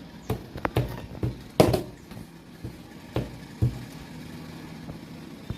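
A series of irregular short knocks and taps, about eight in all, the loudest about a second and a half in.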